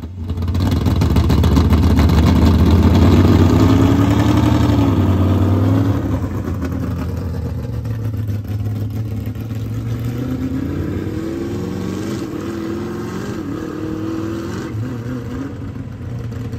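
A car's loud engine running as it drives off ahead, loudest in the first six seconds, rising in pitch as it revs up around four to five seconds in and again several times near the end.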